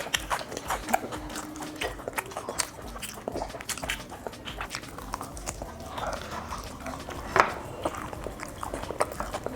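Close-up eating sounds: crisp bites and wet chewing of home-made fried chicken, a string of irregular crunches and crackles.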